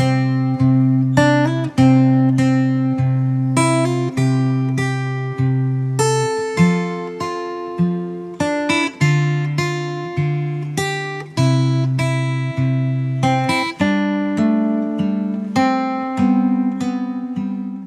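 Acoustic guitar played solo, plucked notes picked one after another over ringing bass notes in a slow, steady instrumental passage.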